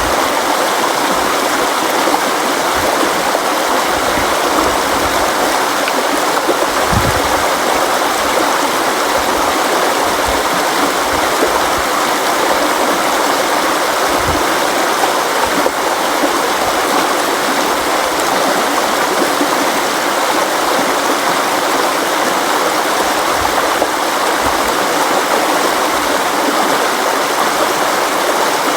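River water flowing and splashing: a steady, dense rush with an occasional brief low gurgle.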